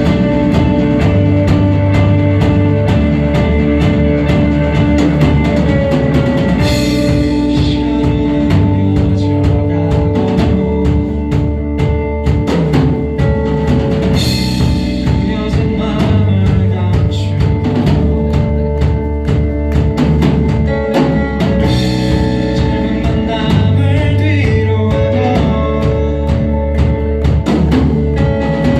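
Live band playing a rock song: a drum kit keeps a steady beat over held low bass notes, with a cymbal crash roughly every seven seconds.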